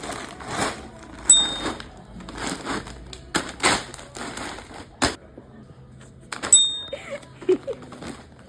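Two short high-pitched electronic beeps about five seconds apart, among repeated clattering and rustling.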